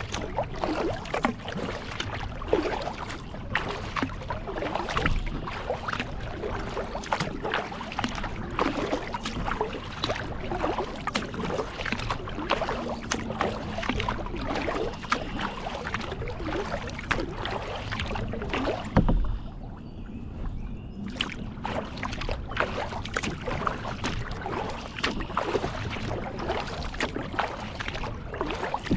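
Kayak paddle strokes dipping and splashing in lake water, an irregular run of splashes against the hull, with a thump about two-thirds of the way through and a short lull after it.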